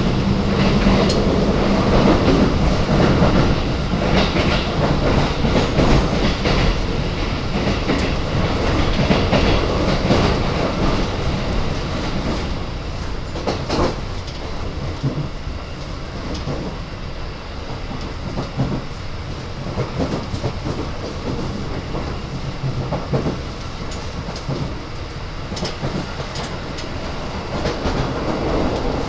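Keikyu 1000 series commuter train running, heard from inside a passenger car: a steady rumble of wheels on rail with a sharp clack every few seconds. It grows somewhat quieter through the second half.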